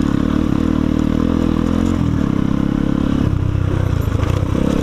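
Single-cylinder enduro motorcycle engine running under way, with some rattling; its pitch drops about two seconds in and again a little after three seconds as the revs fall.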